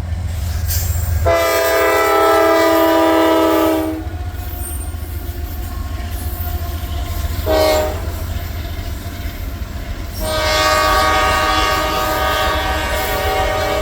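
Diesel locomotive's multi-chime air horn sounding a long blast, a short blast, then another long blast, the closing pattern of a grade-crossing warning. The low rumble of the passing train runs underneath.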